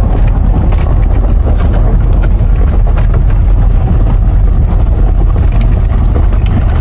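Vehicle running and rumbling steadily while driving, with scattered light rattles and some wind buffeting on the microphone.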